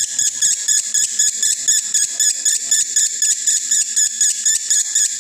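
Male lovebird in breeding condition chattering without a break in fast, high-pitched chirps, about five a second: the long continuous 'konslet' song.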